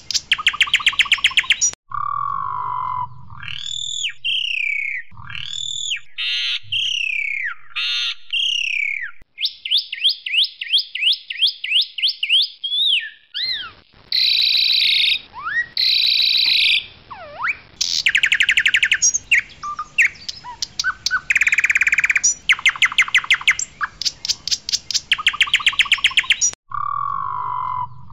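Pied myna (jalak suren, Sturnus contra) singing loudly: a long, varied song of rapid rattling trills, whistled notes that slide down, and harsh buzzy phrases.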